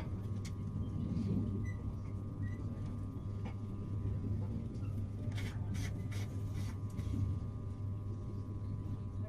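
Interior of a moving passenger train carriage: a steady low rumble and hum, with a faint constant whine above it and a few light clicks a little past halfway.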